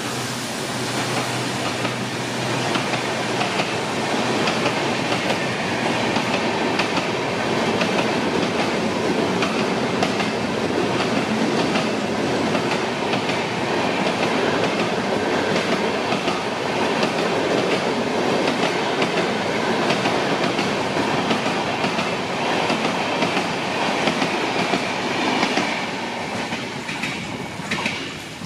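Express train passenger coaches passing close by at speed, their wheels clattering over the rail joints in a loud, continuous rush.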